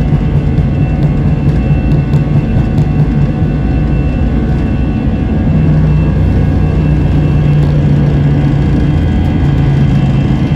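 Airliner engines running at takeoff power: a loud, steady rumble with a thin high whine over it.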